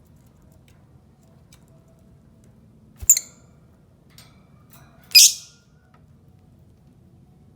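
Lovebird giving two short, high-pitched calls, about three seconds in and about five seconds in; the second is the louder and longer.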